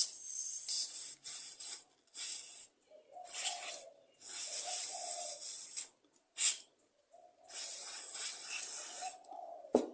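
Aerosol carburettor cleaner sprayed in repeated short hissing bursts of varying length, flushing out the passages and small holes of a Walbro carburettor during a clean.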